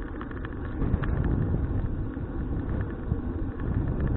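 Wind rumbling on an action camera's microphone while riding a bicycle, with scattered light clicks and rattles over a steady low rush of air and road noise.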